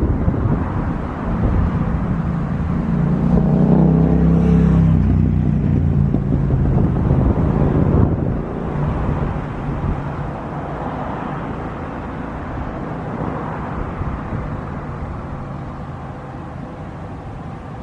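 Jet airliner's engines rumbling as it passes, loudest about four seconds in and dropping away after about eight seconds, then fading slowly.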